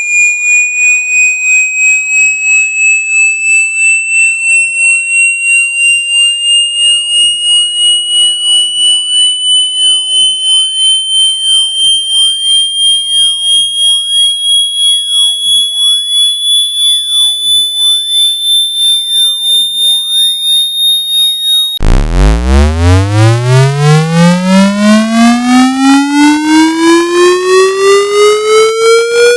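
Synthetic water-eject tone for shaking water out of a phone's port: a pure high tone rising slowly in pitch and pulsing about twice a second. About 22 seconds in it switches abruptly to a buzzy tone sweeping upward from a deep hum.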